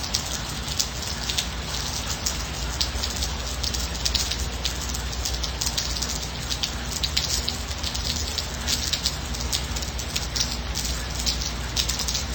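Gentle steady rain, with many separate drops ticking close by over an even hiss and a low steady rumble.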